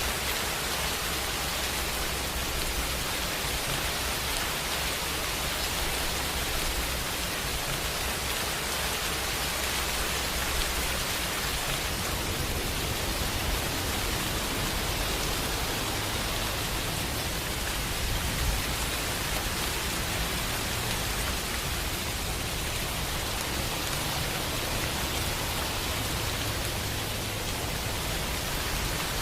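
Steady rain falling, an even dense hiss with no pauses and no single drops or claps standing out.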